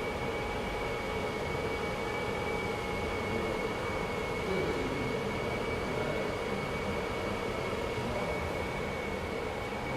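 Steady whooshing noise of a BGA rework station's hot-air blowers and cooling fans running during a heating cycle, with a thin steady high whine over it.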